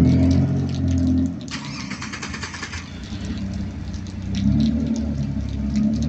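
A motor vehicle's engine revving, rising in pitch at the start and again near the end, with a short burst of rattling noise about a second and a half in.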